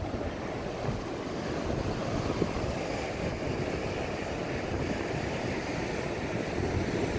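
Atlantic surf washing in steadily, with wind buffeting the microphone in low rumbles.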